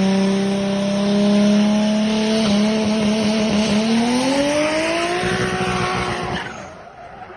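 A car engine running hard at high revs, its pitch holding steady for a couple of seconds, then climbing over the next three, over a loud hiss of road and wind noise. It fades out near the end.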